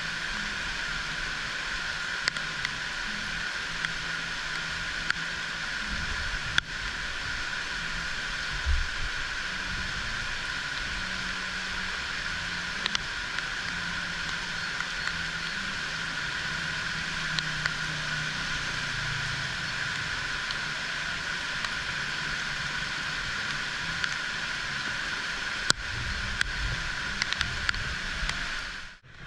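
Steady heavy rain, a constant hiss with scattered sharp drip clicks and a faint low hum underneath.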